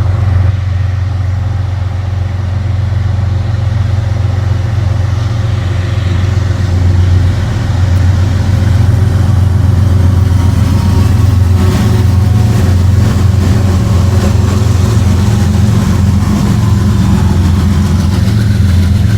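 Diesel-electric freight locomotives running past close by, a loud steady deep engine drone.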